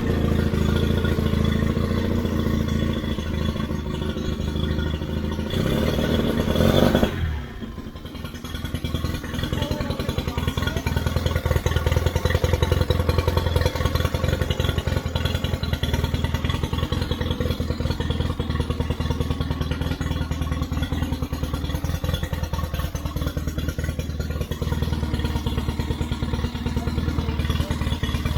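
Nissan Marine outboard motor running steadily, its revs rising briefly about six to seven seconds in and then dropping back sharply to a steady idle with a fast, even ticking.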